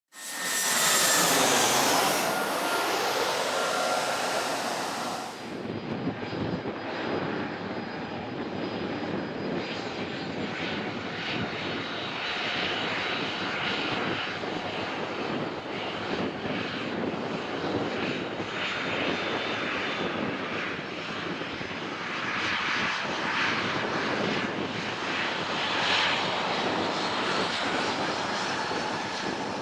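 Boeing 737-800 jet engines (CFM56-7B turbofans) during takeoff. For about five seconds there is a loud jet with a falling whine, which cuts off suddenly; after that comes a steady, rough jet noise that swells and eases slightly.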